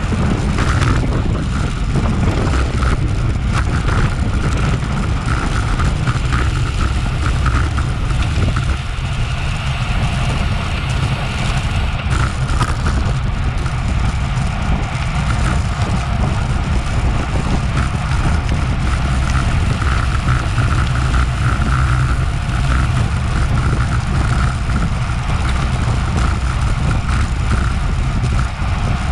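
Steady wind rush over an action camera's microphone while riding at racing speed in a bicycle road race, with road and tyre noise underneath.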